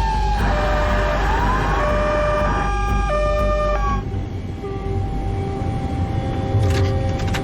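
Several emergency-vehicle sirens, some switching between two tones and one wailing down and back up, over a low rumble. About four seconds in the sirens and rumble drop away, leaving a steady tone and a repeating beep.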